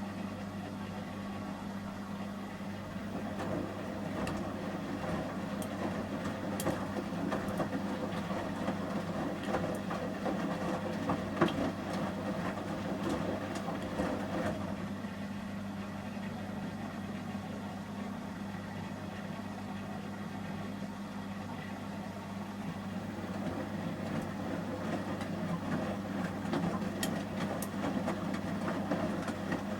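Samsung Series 5+ front-loading washing machine turning its drum during the heat stage of a 30°C shirts wash: a steady low motor hum under water and laundry churning in the drum. The churning swells for about ten seconds, eases off, then swells again near the end, with a few light clicks.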